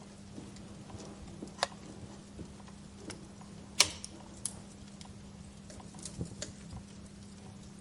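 Wood fire crackling in a fireplace: scattered irregular pops and ticks, with one sharp loud pop about four seconds in.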